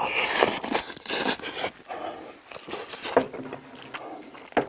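Close-up eating sounds: loud, noisy mouth sounds of eating and breathing over the first second and a half, then quieter chewing with a few sharp clicks.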